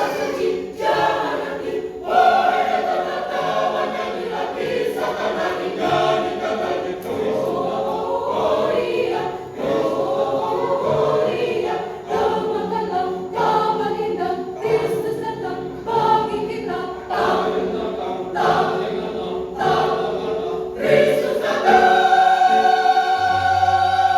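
Church choir singing a Christmas song in Indonesian, phrase after phrase, ending on a long held chord over the last couple of seconds.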